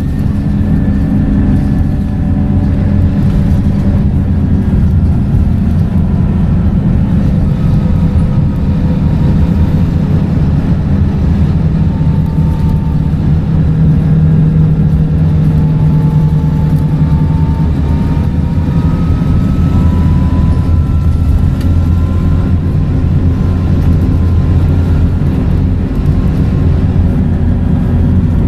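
Scania K230UB single-decker bus running under way, its engine drone steady, with faint whines that slowly rise in pitch in the middle as it gathers speed through the ZF gearbox.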